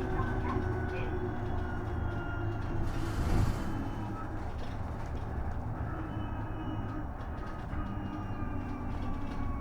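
Isuzu Erga EV electric bus riding, heard from inside: the electric drive's thin whine slowly shifting in pitch over the low rumble of the road, with a brief hiss and thump about three seconds in.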